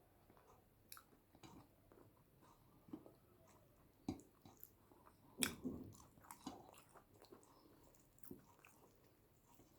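Close-miked ASMR chewing and mouth sounds of someone eating yam with eggplant sauce: soft, irregular wet smacks and clicks, the loudest a little past halfway.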